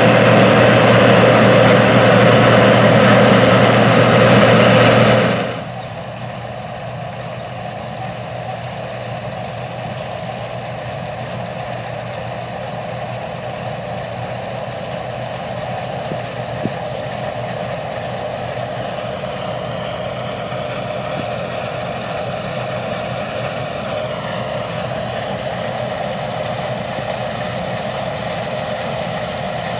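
Deutz-Allis Gleaner R60 combine running in the field, its diesel engine and machinery making a loud steady drone. About five seconds in, the sound drops suddenly to a quieter, even hum that holds for the rest.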